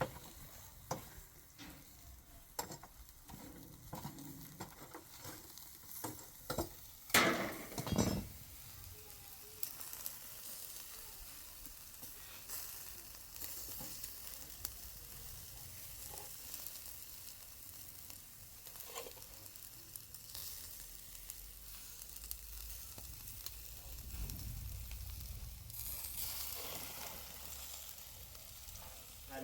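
Food sizzling in a hot pan, a steady hiss with scattered small clicks and two louder knocks about seven and eight seconds in.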